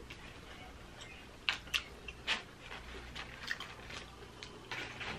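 A person chewing a mouthful of breaded fried chicken sandwich close to the microphone: scattered soft crunches and wet mouth clicks, about ten in a few seconds.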